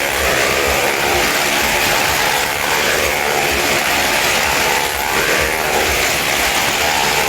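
Motorcycle engine running steadily at speed as the bike circles the wall of a well-of-death pit.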